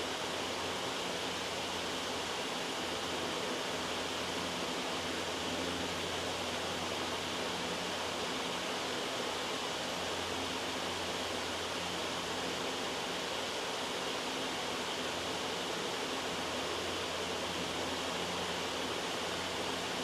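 Steady, loud white noise: an even hiss across the whole range, with a low hum underneath that drops in and out.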